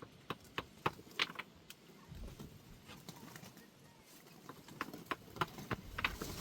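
A string of sharp, irregular knocks and clicks, sometimes several a second, with faint bird chirps.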